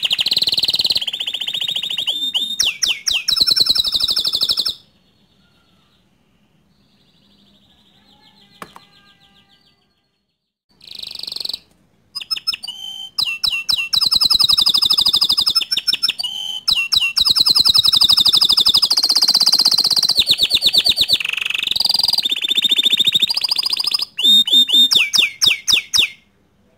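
Domestic canary, bottle-green colour variety, singing long runs of fast, high-pitched trills. It sings for about five seconds, falls quiet for about six apart from one short burst, then sings again for about fourteen seconds before stopping just before the end.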